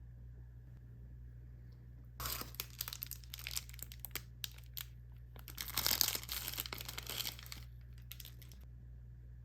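Plastic food packaging being torn open and crinkled in the hands. It starts about two seconds in as a run of crackling bursts and sharp crinkles, is loudest in a longer crinkle a little past the middle, and stops near the end.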